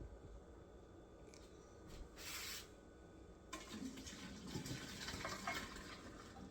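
Boiled macaroni and its cooking water poured from a pot into a colander in the sink, splashing, starting about three and a half seconds in, after a short hiss about two seconds in.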